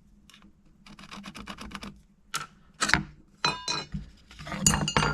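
A quick run of light ticks, then several sharp metallic clinks that ring briefly, the loudest near the end. It is a steel push rod and marking tools being handled and set against a wooden board while the rod is marked for cutting.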